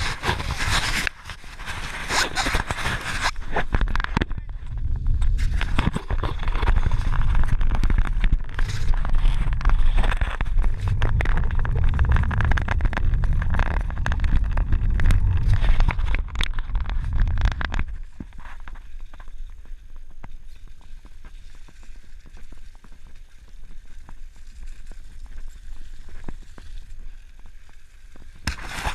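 Mountain bike being ridden along a snowy road, with wind buffeting the microphone as a heavy low rumble. The rumble drops away about eighteen seconds in, leaving quieter tyre noise and small clicks.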